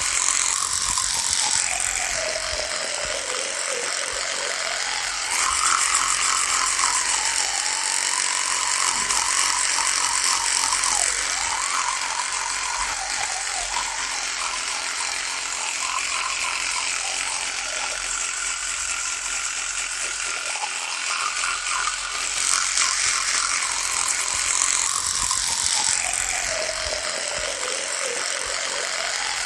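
Electric toothbrush running with a continuous rattling buzz, its pitch sinking and climbing back again a few times.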